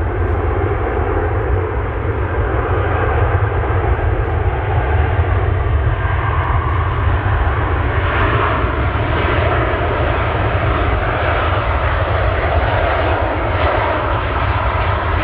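Airliner engines, a steady loud rushing roar with deep rumble, growing brighter and louder about halfway through as the aircraft passes.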